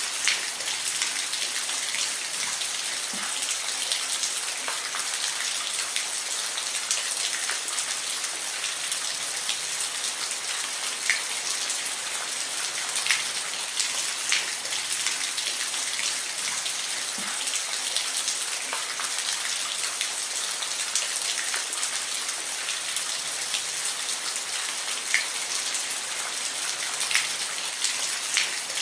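Steady rain falling, a dense even hiss with individual drops ticking sharply on a surface here and there.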